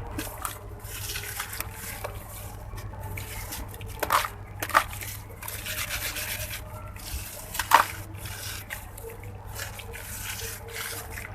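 Water-soaked red sand-cement block being crumbled by hand: wet, gritty crunching and rubbing with dripping water, and three sharper cracks as pieces break, about four, five and eight seconds in.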